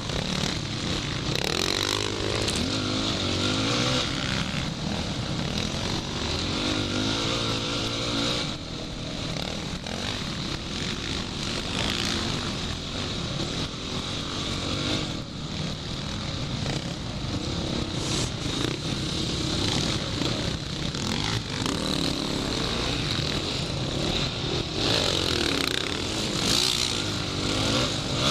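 Off-road motorcycle engine revving up and down as the rider shifts and throttles along the track, heard from a camera on the rider's goggles, with wind noise on the microphone.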